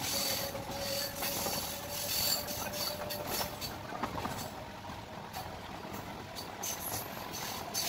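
A MEMU electric train running at speed, heard from an open coach door: steady rumble and rush of the moving coaches with irregular clicks of the wheels on the rails. A steady whine sounds at first and fades out about two seconds in.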